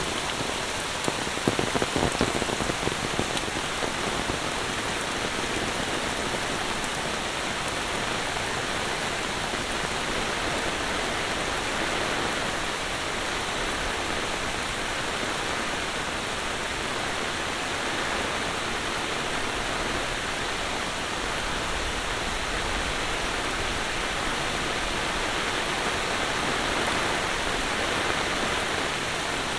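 Heavy monsoon rain falling steadily, with a few louder drop hits about a second or two in.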